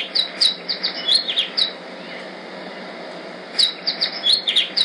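Small songbird chirping in two quick runs of high, rapid notes, with a pause of about two seconds between them, over a steady hiss.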